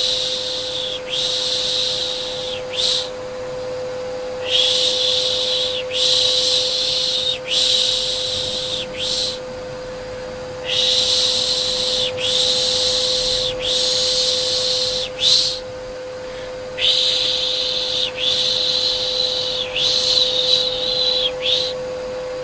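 Steady vacuum cleaner hum under a repeated 'shh' shushing for a baby. The long hushes come one after another, about a second each, in runs broken by three short pauses.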